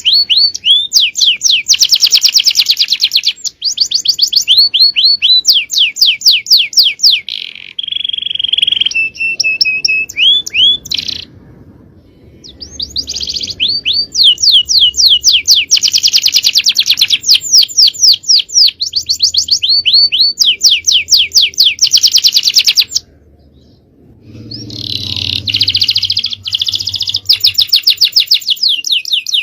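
Male canary singing long song phrases made of very fast trills, each a quick run of rapidly repeated notes, with two short pauses partway through.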